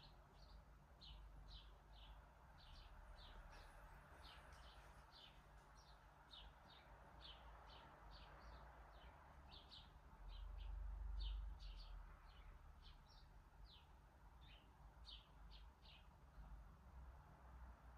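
Faint chirping of small birds: a steady run of short, high chirps about two a second. Beneath it a low rumble swells briefly about ten seconds in.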